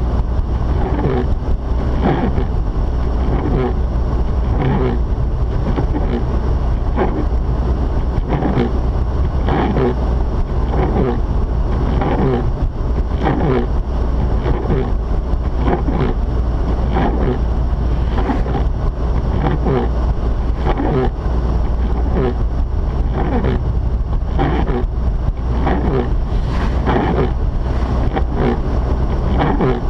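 Steady in-car driving noise from a Mazda RX-8: a constant low rumble of the rotary engine and tyres, with short swishing noises recurring about once a second.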